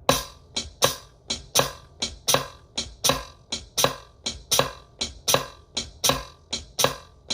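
Akai MPC 500 playing a programmed hi-hat pattern in eighth notes with a swing setting of 60, a steady run of crisp hits about three a second with uneven long-short spacing.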